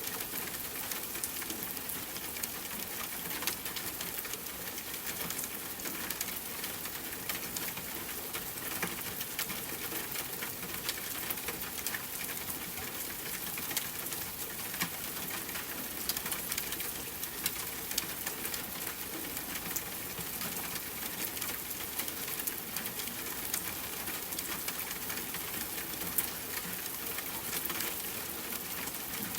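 Steady rain pattering on a tent, with many small pops and clicks of a campfire crackling.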